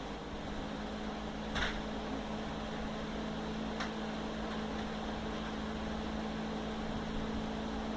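Steady machine hum with a constant low tone, broken by two sharp clicks, the first about one and a half seconds in and the second about two seconds later.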